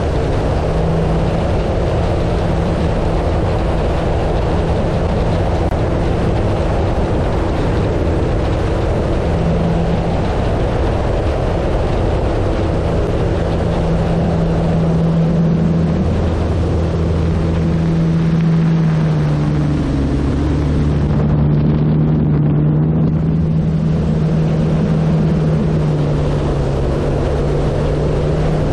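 Hacker A100-10 brushless electric motor and propeller of a large RC airplane in flight, a steady low hum whose pitch shifts a little with throttle, under a heavy rush of wind across the wing-mounted camera.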